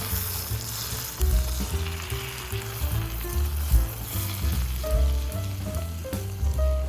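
Food sizzling as it fries in a pan, a steady hiss, under background music with a bass line.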